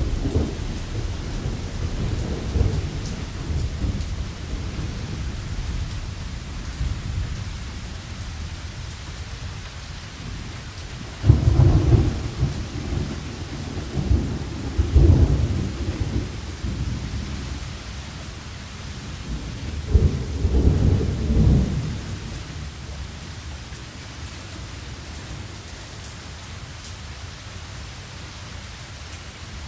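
Thunderstorm: steady rain hiss with deep rolling thunder, a rumble dying away at the start, then sudden low rumbles about a third of the way in, again about halfway, and again about two thirds of the way in.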